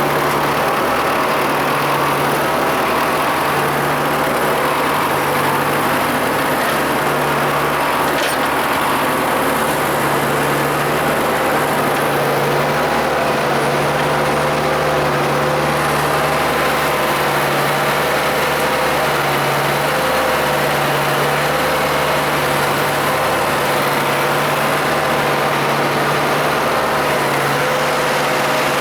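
Valtra T160 tractor's diesel engine running steadily.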